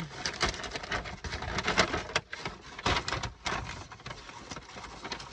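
Paper takeout bag and food packaging rustling and crinkling as they are handled, with many irregular sharp crackles and clicks, loudest about two seconds in.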